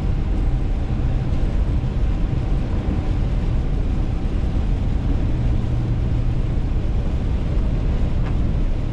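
Steady low rumble of a car driving along, heard from inside the cabin: engine and tyre noise from the road with no sudden events.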